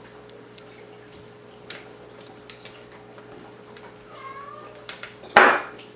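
A cat meows once, a short falling call about four seconds in, followed by a short loud rush of noise. Faint small clicks of handling the laptop and its parts are scattered throughout.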